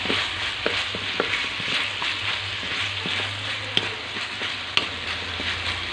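Chicken and diced potato, carrot and bell pepper sizzling in a hot pan while a wooden spatula stirs them, with short scrapes and clicks of the spatula against the pan every second or so.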